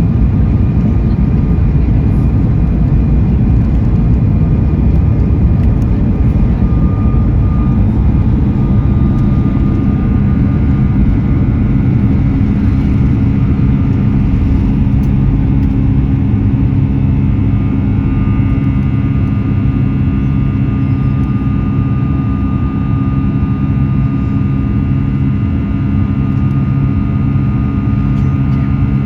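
Boeing 737-8 MAX's CFM LEAP-1B turbofan engines at high thrust, heard from inside the cabin: a loud, steady, deep rumble with several steady whining tones that grow stronger about two-thirds of the way in.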